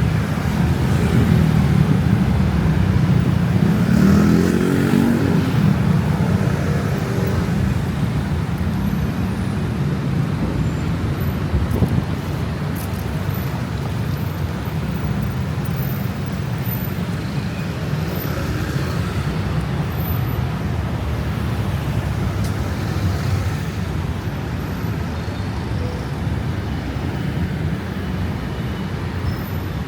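Busy city road traffic: a steady low rumble of passing cars and other vehicles, with one vehicle's engine passing close and loudest about four to six seconds in.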